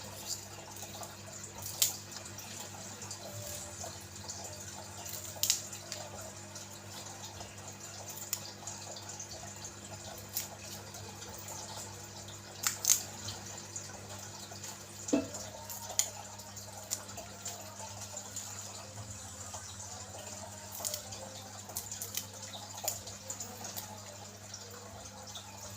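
Water spinach stems being split and snapped by hand, giving scattered sharp crisp snaps every few seconds over a steady background hum that partly drops out about halfway through.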